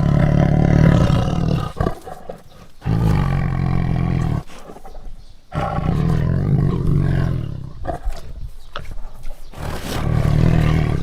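Tiger roaring: four long, deep calls in a row, each about one and a half to two seconds long, with short breaks between them.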